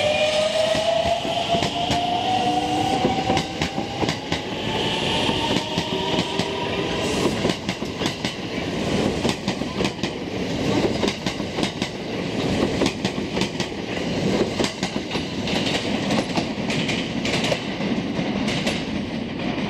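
Electric train pulling away, its motor whine rising slowly in pitch over the first several seconds, then a rapid clacking of wheels over rail joints as it gathers speed.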